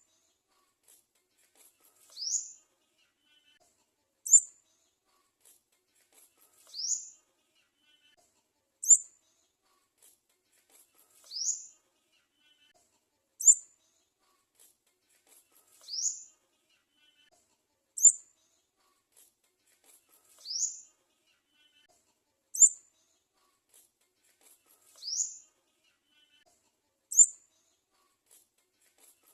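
Garden sunbird chick's high, thin begging calls: a short sharp chirp, then about two seconds later a call that slides down in pitch. The pair repeats at an even pace, about every four and a half seconds.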